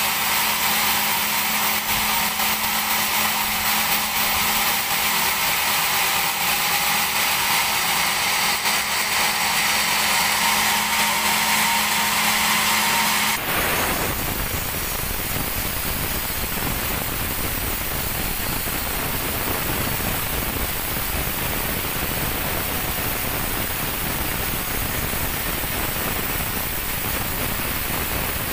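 Sawmill band saw cutting a teak log: a steady hum under a strong high hiss. About halfway through, the sound changes abruptly to an even rushing noise without the hum.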